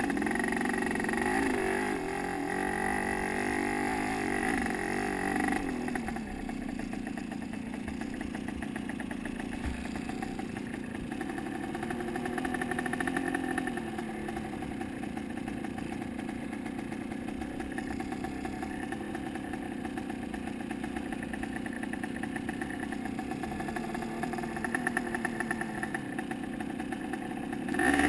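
Motocross dirt bike engine running, its pitch rising and falling as the throttle changes.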